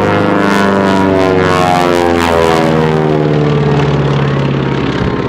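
Beech 18's twin radial engines and propellers running in a flyby, their pitch sliding steadily lower as the aircraft passes.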